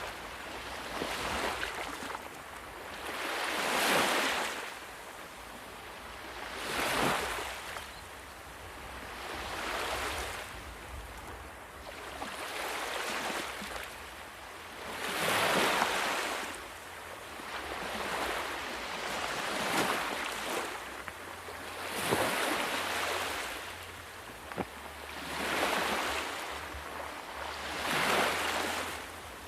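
Sea waves breaking and washing up on a shore, one swell rising and falling every few seconds.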